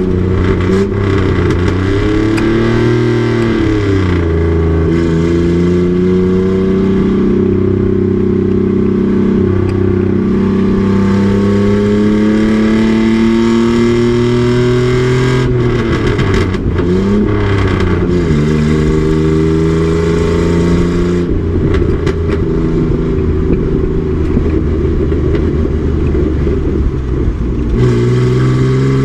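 Race truck's engine running hard on track. Its pitch climbs slowly through long pulls, with the throttle lifting and pitch dipping and recovering about three seconds in and again around the middle. The pitch jumps up suddenly near the end, as on a downshift.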